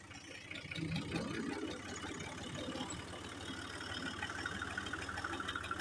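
Fiat 480 tractor's diesel engine running steadily, its sound growing louder about a second in.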